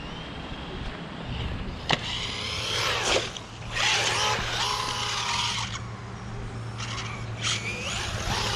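Bezgar HM124 brushless RC car driven in bursts, its motor whining up and down and its tires screeching as they grip. The screech sounds like stripped gears but comes from the tires' traction; there is also a sharp knock about two seconds in.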